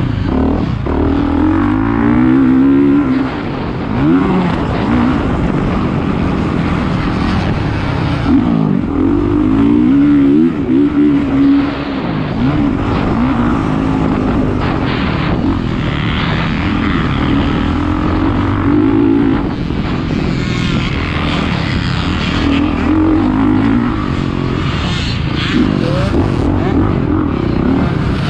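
450cc motocross bike engine revving hard and easing off over and over, its pitch climbing and dropping every second or two.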